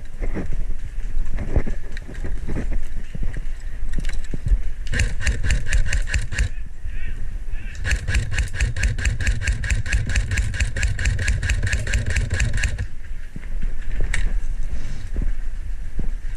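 Airsoft automatic electric gun (AEG) firing full-auto: a short burst about five seconds in, then a longer burst of about five seconds, each a rapid, even rattle of shots over the whine of the gearbox motor. Low rumbling wind and handling noise runs underneath.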